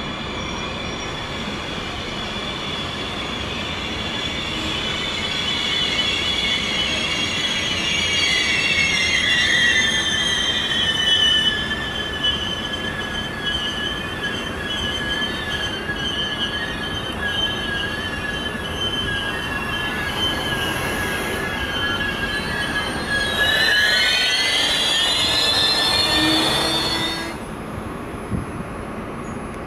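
Train wheels and brakes squealing as a passenger train slows into a station, over the rumble of the train. The shrill squeal of several tones slides down in pitch, holds steady for a long stretch, rises again and then stops abruptly near the end as the train comes to a halt.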